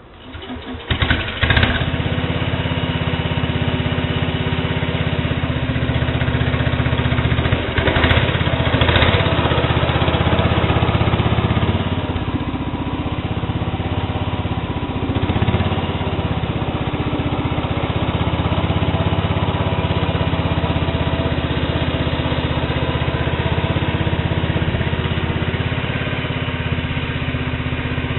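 Sears Suburban garden tractor engine starting about a second in, then running steadily, a little louder for a moment around eight seconds in.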